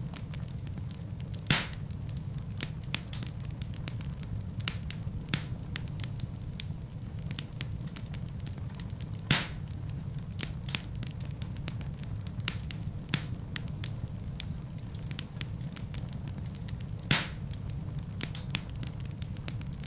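Fireplace fire burning with a steady low rumble and frequent sharp crackles, with three louder pops spread through it.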